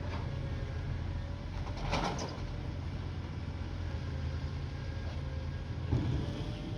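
Garbage truck engine running steadily, with two short noisy bursts, one about two seconds in and one near the end.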